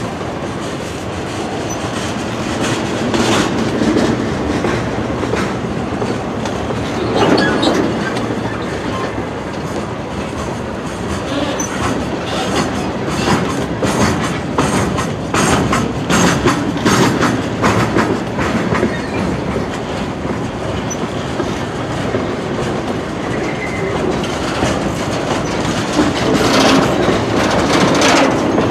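Freight train cars rolling past on jointed track, wheels clicking and knocking over the rail joints, with the knocks coming thickest in the middle and again near the end.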